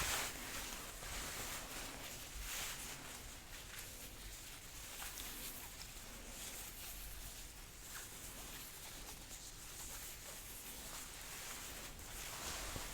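Soft rustling of jacket fabric as a sleeve is rolled up, in slow swells of swishing every second or two.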